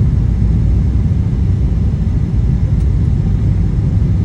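Steady low rumble of a Boeing 777-300 airliner, engine and airflow noise heard from inside the passenger cabin.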